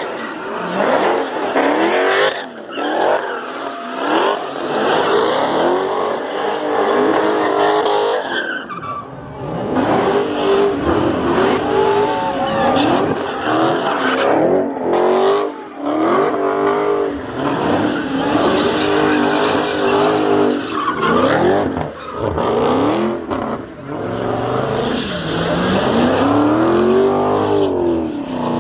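Car engines revving up and down over and over, with tires screeching as cars do burnouts and donuts.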